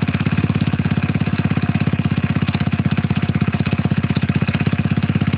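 Small-displacement motorcycle engine running steadily at a constant speed, with a fast, even pulsing.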